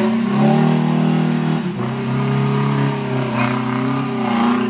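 Small off-road 4x4's engine revving hard under load as it claws out of a deep muddy rut. The revs dip briefly about a third of the way in, then pick back up and hold high.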